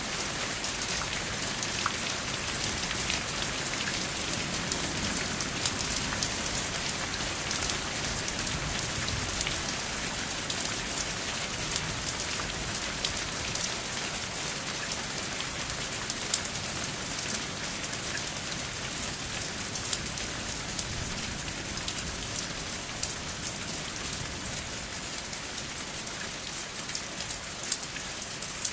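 Steady rain falling with no thunder: a dense, even hiss with many individual drops ticking through it.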